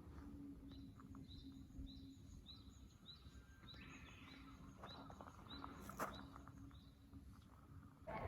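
A bird calling a quick series of short high chirps, about two a second, for several seconds over faint background noise, with a single sharp click about six seconds in.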